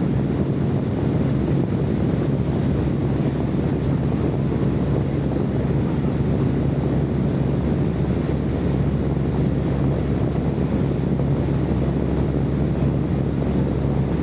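Steady, unchanging low rumbling noise with a constant low hum running through it.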